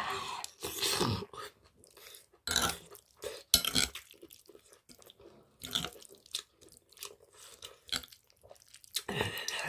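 Close chewing and biting of spicy stir-fried webfoot octopus mixed with rice and bean sprouts, in irregular bursts with short pauses between.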